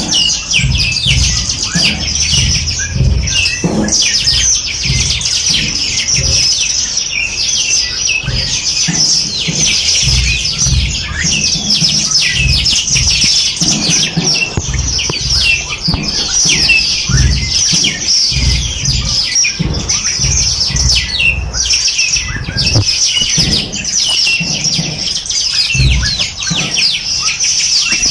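A dense chorus of many small songbirds chirping and trilling without pause, the high rapid notes overlapping continuously. An uneven low rumble comes and goes beneath it.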